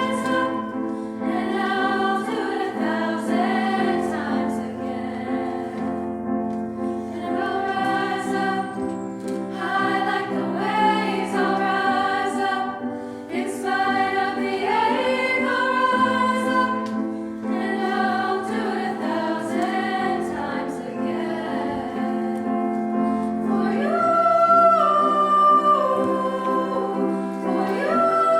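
A small women's choir sings in sustained, held harmony, accompanied by piano.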